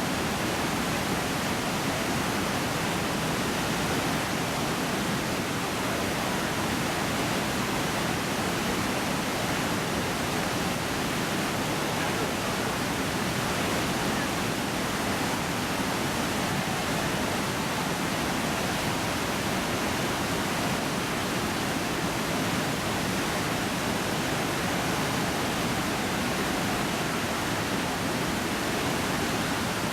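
Steady roar of Iguazu Falls, a massive waterfall, a constant even rush of falling water with no breaks.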